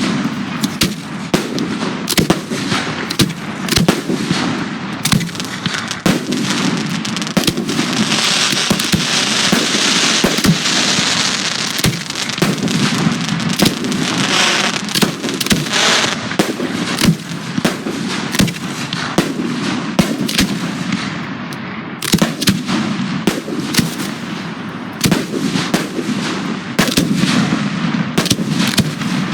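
Professional display fireworks: aerial shells and cakes firing and bursting in quick succession, a steady run of sharp bangs. A denser, hissing crackle fills the middle stretch.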